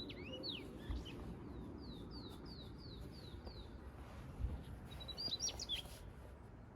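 Wild birds singing: a run of about six short, evenly spaced falling whistled notes, with scattered chirps before and after, over a low steady background rumble.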